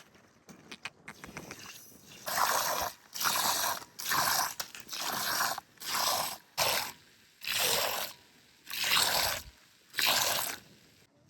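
A run of about nine rhythmic scraping strokes, each about half a second long, coming a little under a second apart, preceded by a few faint clicks.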